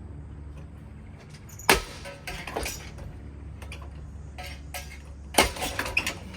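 Hampton Bay Waterton ceiling fan being smashed while its motor hums steadily: two loud crashing impacts, the second about four seconds after the first, each followed by a short clatter of loose, broken parts.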